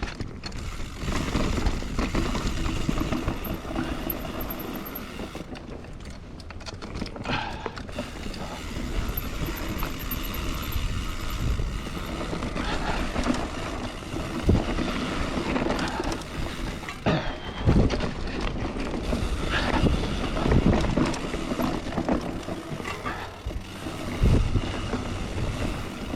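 Mountain bike ridden along a dirt trail: tyres rolling over the ground, with irregular knocks and rattles from the bike as it jolts over bumps.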